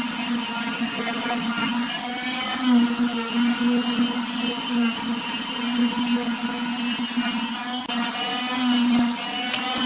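Electric power tool motor running steadily, its pitch wavering slightly.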